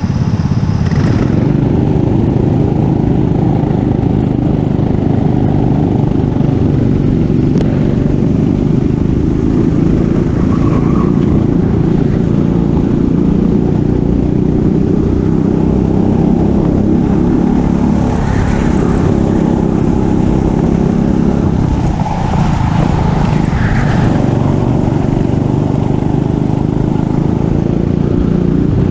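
Racing kart engine running hard and loud, with a brief dip in engine pitch about two-thirds of the way through before it picks up again.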